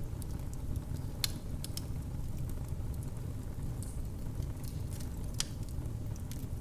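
Wood fire crackling in a fireplace: a steady low rumble of the flames with scattered sharp pops and snaps, two of them louder, just over a second in and about five seconds in.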